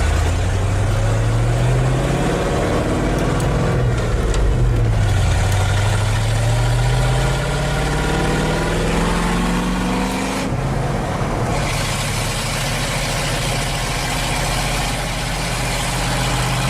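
Ford F-150 pickup engine running open with its exhaust cut off, pulling away under load through a manual gearbox. The pitch climbs, drops at a gear change about four seconds in, climbs again, and settles to a steady cruise after about ten seconds.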